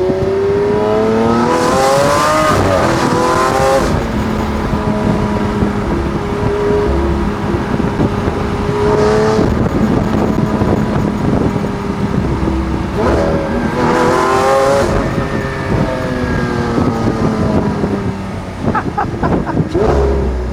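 Lamborghini Aventador's V12 engine under way, revving up twice with a steep rise in pitch, about a second in and again about thirteen seconds in, and running steadier between.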